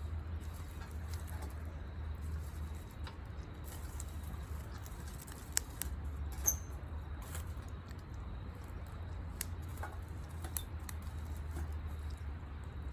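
Wood campfire crackling, with irregular sharp pops and clicks over a low steady rumble.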